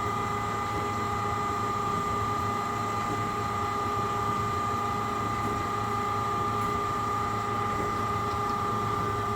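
Brown & Sharpe 1224 Micro Master surface grinder running with its spindle and hydraulics on: a steady machine whine made of several constant tones over a low hum.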